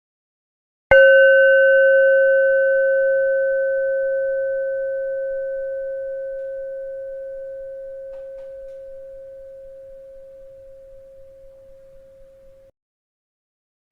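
A bell struck once about a second in, ringing with one clear tone and a few higher overtones that die away first. It fades slowly for about twelve seconds and then cuts off abruptly, and the next strike comes right at the end.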